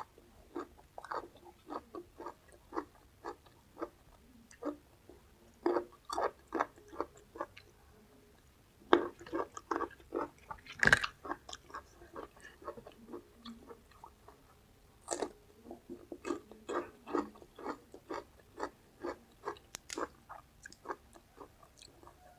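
Close-miked chewing and crunching of crisp raw vegetables (lalapan). Short crunches come about two a second, with a brief pause about eight seconds in and one sharp crack, the loudest sound, about eleven seconds in.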